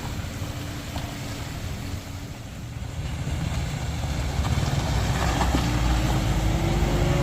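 Heavy vehicle engine running, growing louder about halfway through, with a whine that slowly rises in pitch near the end.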